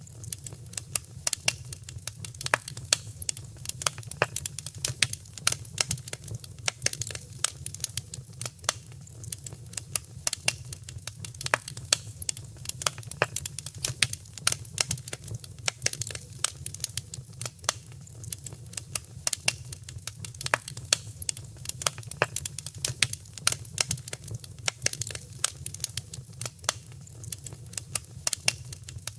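Wood fire crackling in a fireplace: a dense run of sharp, irregular pops and snaps, several a second, over a steady low rumble of the burning.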